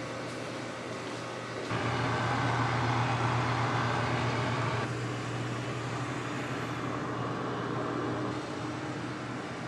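A steady machine hum with a low drone. It steps up suddenly to louder about two seconds in, then eases back about five seconds in.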